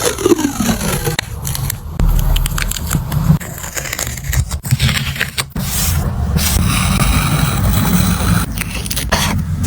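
Paper and craft materials being handled for a journal page: scraping and crackling of paper with many small clicks and taps, over a steady low rumble of handling on the desk.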